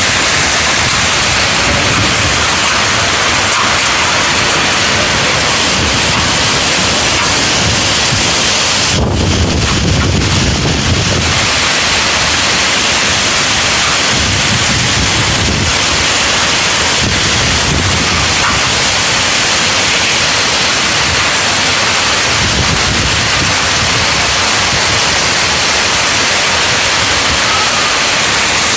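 Hail pelting down in a dense, steady hiss, with wind gusts buffeting the microphone in low swells every few seconds; the strongest gust comes about nine to eleven seconds in.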